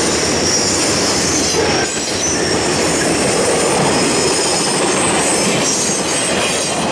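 Freight train cars rolling past close by: steady rumble of steel wheels on rail with high-pitched wheel squeal running over it.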